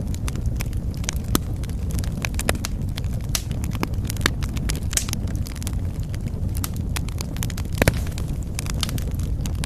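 Fire in a fireplace crackling and popping irregularly over a steady low rumble of the flames, with one louder pop near the end.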